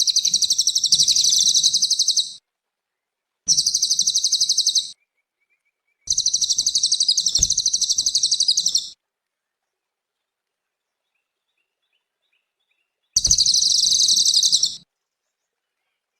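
A cililin bird singing in four bursts of rapid, high-pitched chattering trills, each one to three seconds long, with short silences between them and a longer pause before the last.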